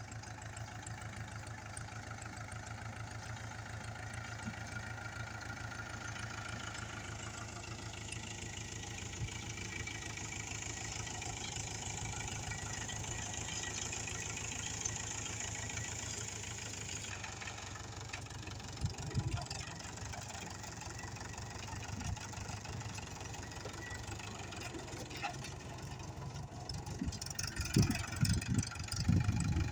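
Tractor diesel engine running steadily while pulling a seed drill sowing coriander, with a few louder knocks near the end.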